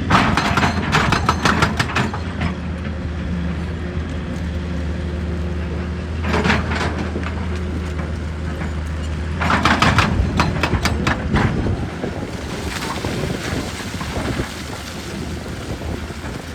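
A heavy engine running steadily, with bouts of rattling, clattering noise right at the start, around six seconds in and again around ten seconds.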